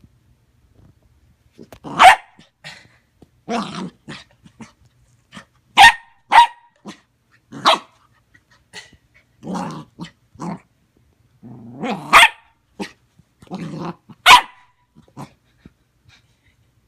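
Puppy barking in sharp single barks every one to two seconds, with lower growling between some of them.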